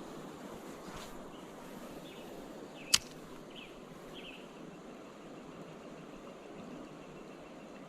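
Steady rushing of flowing creek water, with one sharp click about three seconds in and a few short, faint high chirps.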